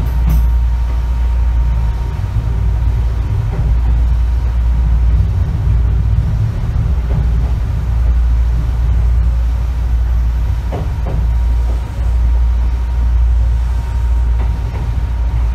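Running sound inside an Izukyu 8000 series (ex-Tokyu 8000) motor car on the move: a loud, steady low rumble of the wheels and running gear on the rails, with a faint steady whine and a few short clicks.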